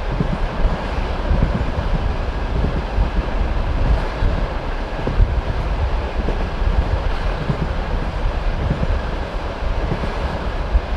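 Passenger railway carriage running at speed: a steady rumble of wheels on rails, with occasional faint wheel knocks.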